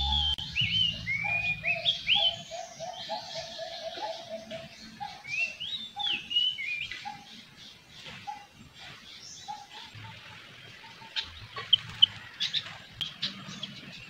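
Bird chirping: quick whistled notes that swoop up and down, mixed with a run of short lower notes, through roughly the first half. A few sharp clicks come near the end.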